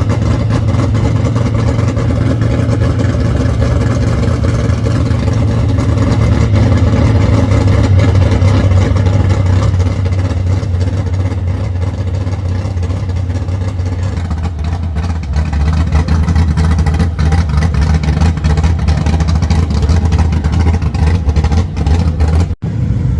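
A car engine running steadily and loud close by, a deep low rumble. It settles a little lower in pitch about two-thirds of the way through and cuts out for an instant just before the end.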